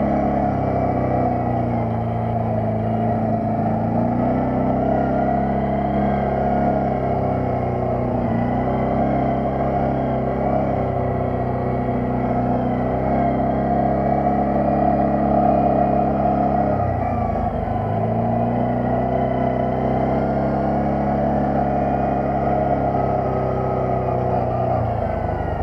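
Quad bike (ATV) engine running steadily on the move, its pitch dipping briefly and picking up again a few times as the throttle eases and opens.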